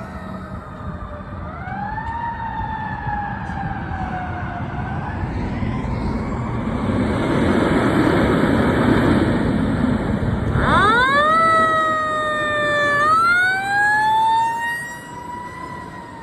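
Fire apparatus sirens wailing, their pitch gliding up and down, growing louder toward the middle with a loud rushing noise underneath. About eleven seconds in a siren sweeps sharply up from a low pitch and wails on, and the whole fades near the end.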